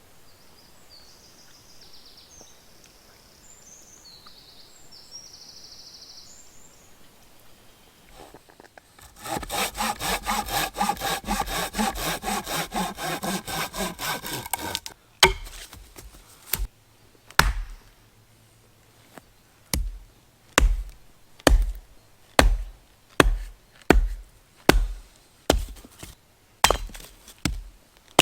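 Wood being sawn by hand with quick, even strokes for about six seconds, then chopped with repeated sharp blows that settle into a steady rhythm of about one and a half a second. Before the sawing, faint bird chirps sound over a quiet forest.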